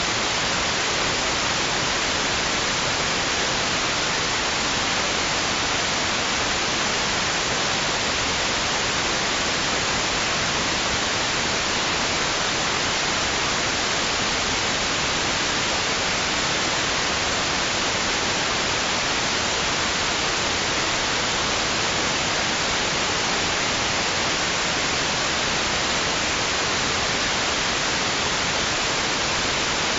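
Steady white-noise hiss, even and unchanging, with no swell of waves; it is played to soothe and settle babies to sleep.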